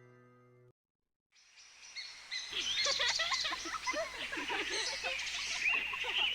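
The last held notes of a song fade and cut off under a second in. After a brief silence, a background hush swells up and many birds start chirping and tweeting, a busy birdsong chorus that keeps going.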